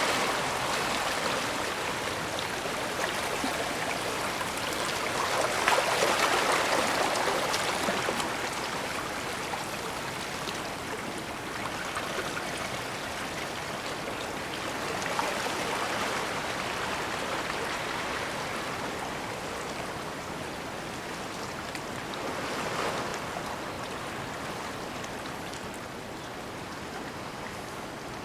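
Water washing in a bay: a steady hiss that swells and eases several times, loudest about six seconds in.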